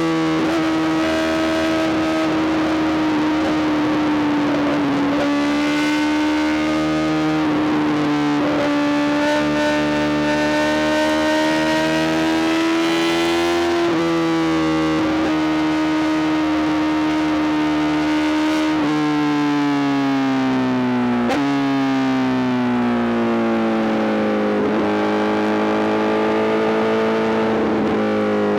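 Honda CBR1000RR-R SP's inline-four engine breathing through a full Arrow GP exhaust, running at high revs under way. The pitch drifts slowly up and down and steps abruptly several times.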